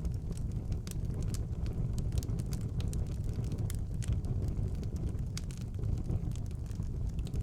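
Fire burning in a fireplace: a steady low rush of flame with frequent, irregular sharp crackles and pops.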